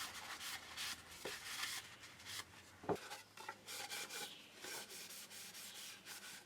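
A cloth rubbing Danish oil onto a walnut box, as faint repeated wiping strokes, with a couple of light knocks about a second and three seconds in.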